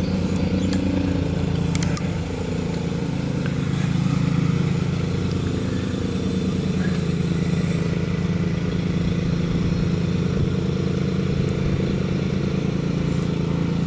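A motor or engine running with a steady low drone.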